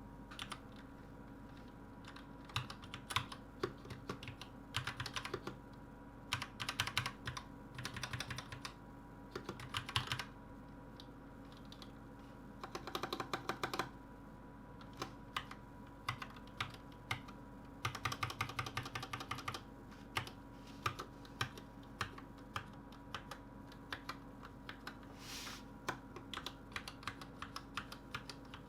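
Typing on a Gamakay LK67 mechanical keyboard fitted with Gateron Red linear switches. Irregular runs of key clacks come between short pauses, with a few fast bursts of rapid keystrokes.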